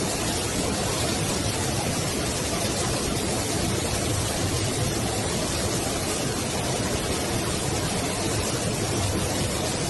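Steady, unbroken rushing of floodwater and heavy rain, an even noise with no breaks or distinct events.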